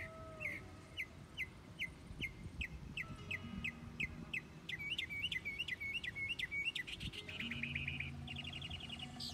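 A songbird singing: a run of quick, repeated down-slurred chirps, about two or three a second, that changes to a faster, more complex phrase about five seconds in and a rapid trill near the end.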